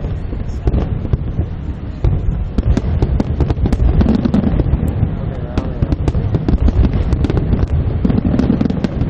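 Aerial fireworks display: many sharp bursts and cracks in quick succession over a continuous low rumble of booms.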